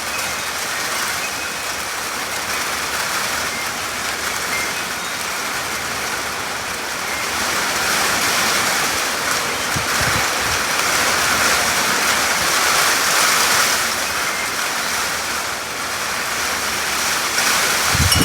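Heavy rain pouring down in a steady, even hiss that swells slightly in the middle.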